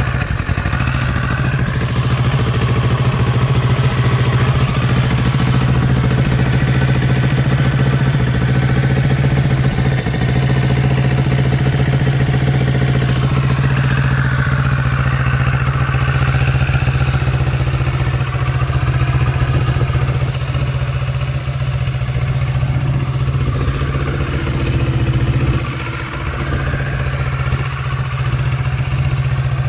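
2022 Kawasaki Ninja 650's parallel-twin engine idling steadily and evenly, which the seller calls healthy and running as it should. It dips briefly in level about 26 seconds in.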